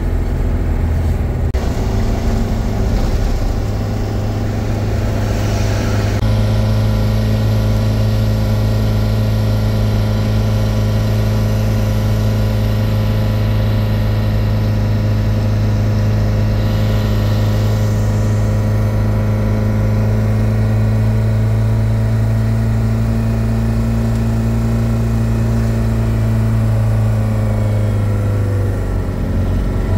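A vehicle's engine running at a steady pitch while driving, heard from inside the cab. Its note drops briefly near the end.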